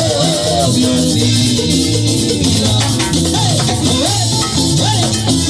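Live Latin tropical dance music played by a band: a repeating bass line and bright shaken percussion under a wavering lead melody.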